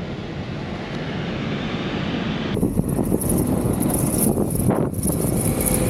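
Blizzard wind rushing over the microphone in gusts, a steady rumble with no engine tone; a high hiss joins abruptly about two and a half seconds in.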